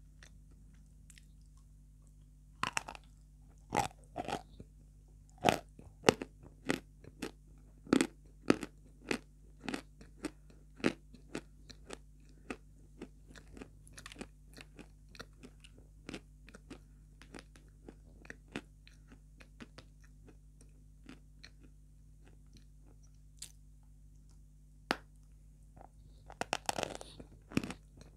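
A person biting and chewing hard, chalky white chunks right at a lapel microphone: a run of sharp, dry crunches, thick and fast for the first several seconds, then thinning out, with a short flurry near the end.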